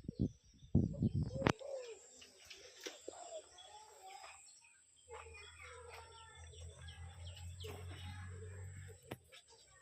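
Spotted doves cooing, with the short chirps of small birds scattered throughout.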